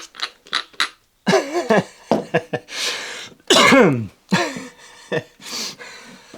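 A man's voice making wordless sounds: several falling groan-like exclamations mixed with sharp, breathy exhalations.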